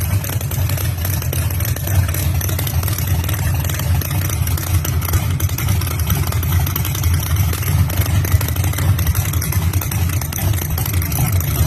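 1968 Chevrolet Camaro drag car's big-block engine idling steadily.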